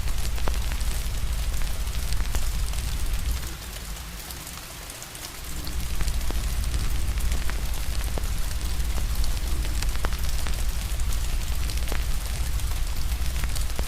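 Steady rain hiss mixed with fire crackling, with scattered sharp pops over a deep low rumble. The rumble drops away for about two seconds a third of the way in.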